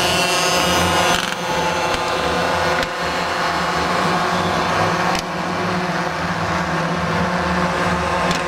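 Heavy truck engines running steadily, with a continuous low drone.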